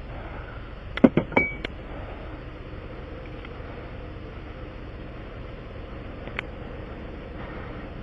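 A vehicle engine idling with a steady low hum, while hard objects knock and clink sharply four or five times in quick succession about a second in, one clink ringing briefly, and once more later.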